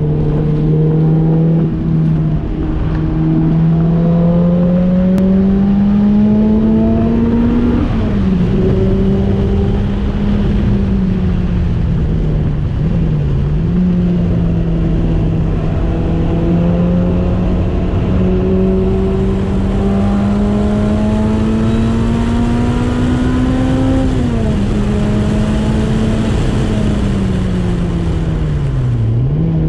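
Lotus Elise SC's supercharged four-cylinder engine heard from the cockpit under load, its revs climbing steadily in gear and dropping sharply at gear changes about eight and twenty-four seconds in. The revs dip briefly once in between, then fall away as the car slows near the end. A steady rush of wind and road noise runs underneath.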